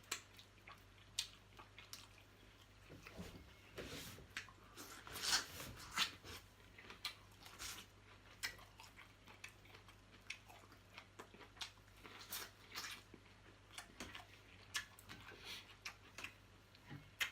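A person eating close to the microphone: chewing and wet mouth noises with many small irregular clicks and smacks.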